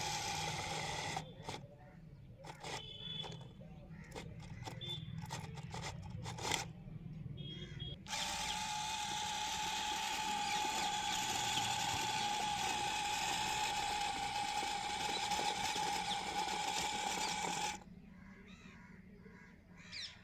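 A small motor running with a steady whine, stopping about a second in, then clicks and knocks, then running again for about ten seconds before cutting off suddenly.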